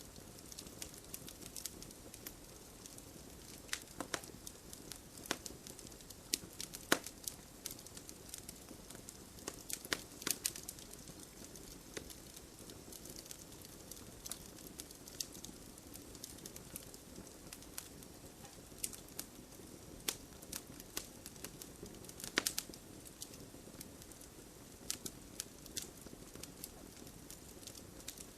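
Wood fire crackling: irregular sharp snaps and pops, a few louder ones scattered through, over a low steady rush of burning.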